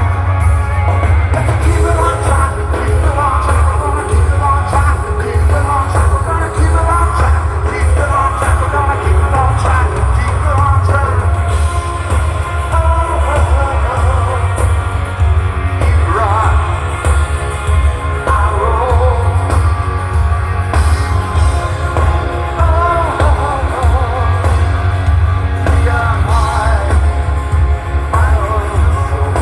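Rock band playing live with a lead singer over guitars and drums; the bass and low end are heavy and booming.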